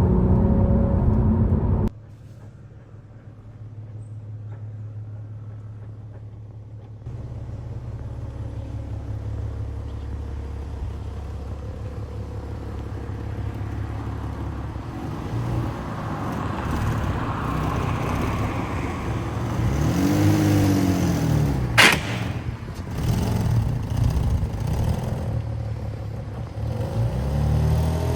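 Audi A3 3.2's VR6 engine running through a sports exhaust with the middle silencer deleted. It drops to a low steady rumble early on, then builds. The note swells and falls twice, and there is a single sharp crack about two-thirds of the way through.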